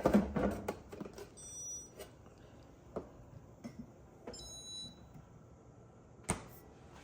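Two short, high electronic beeps from a refrigerator's control panel, about three seconds apart. Light clicks and knocks of handling come near the start, and a single knock comes near the end.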